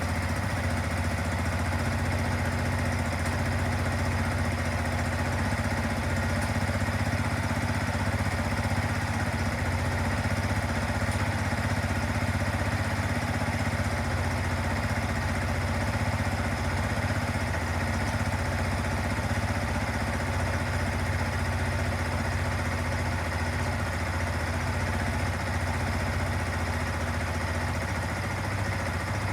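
Yamaha YZF-R15's single-cylinder four-stroke engine idling steadily.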